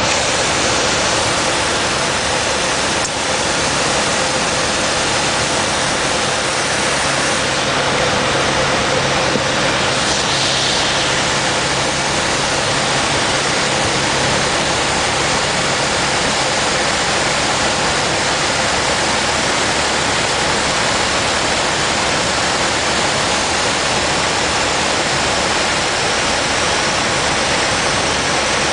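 Piper PA-28-140 Cherokee's four-cylinder engine and propeller with the rush of airflow, heard from inside the cockpit as a loud, steady noise. A faint low hum rides under it for a while, appearing a few seconds in and fading about halfway through.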